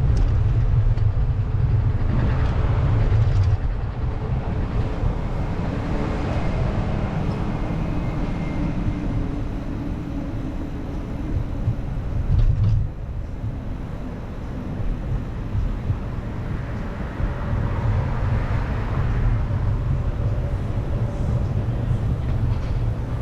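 Urban street noise: vehicles passing on a city street over a steady low rumble, with louder swells as they go by, near the start and again near the end.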